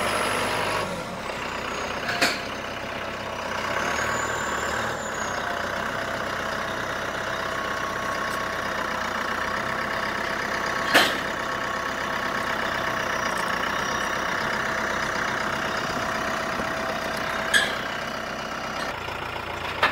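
An engine running steadily, with three short sharp clicks or knocks spread through it.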